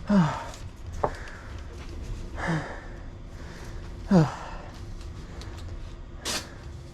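Three short sounds of a person's voice, each falling in pitch like a sigh or murmur. There is a sharp click about a second in and a brief hiss near the end, over a low steady rumble.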